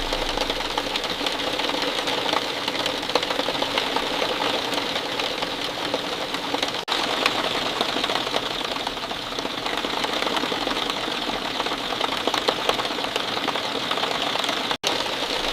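Steady rain falling: a dense, even patter of countless close drop taps. It cuts out for an instant twice, about seven seconds in and near the end.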